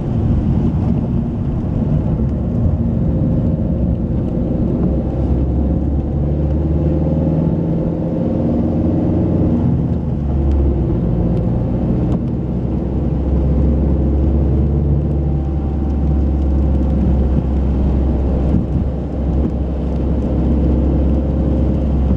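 Car engine running steadily while driving, heard from inside the cabin as a continuous low drone, with the engine note shifting slightly up and down in pitch.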